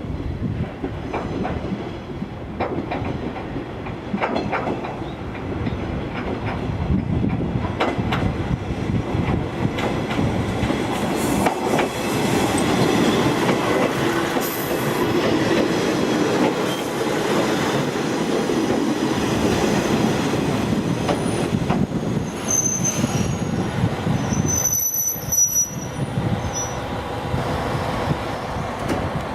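Diesel railcar moving through a station, running louder from about ten seconds in. High-pitched wheel squeal comes near the end.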